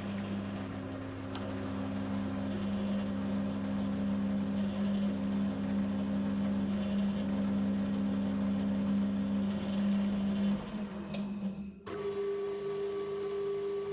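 Metal lathe running at a steady speed while a 5/16-18 tap is power-fed into a drilled hole in a steel shaft, then running down and stopping about ten seconds in. Near the end a different steady, higher hum starts abruptly.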